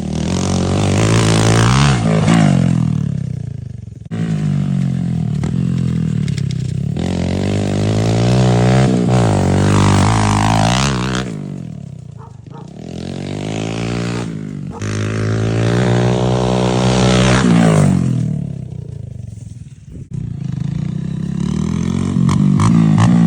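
Honda dirt bike engine revving hard and backing off over and over, its pitch climbing and falling in several surges with short lulls between.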